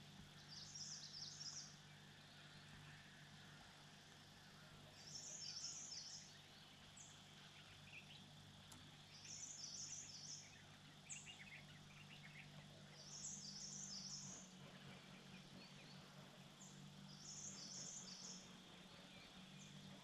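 A small bird singing the same short, high twittering phrase about every four seconds, five times, over a faint steady hum.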